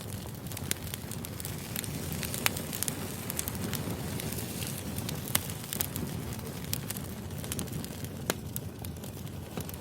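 Firewood burning, crackling with sharp pops scattered at irregular moments over a steady low rustle; the loudest pop comes about two and a half seconds in.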